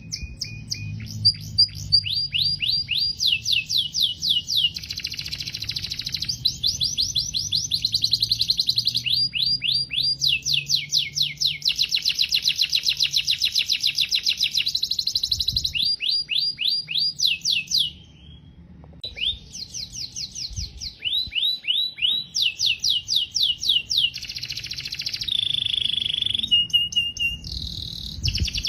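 Domestic canary singing: long rolling trills of rapid repeated notes that change from tour to tour, with a short pause about two-thirds through and a few held, whistled notes near the end.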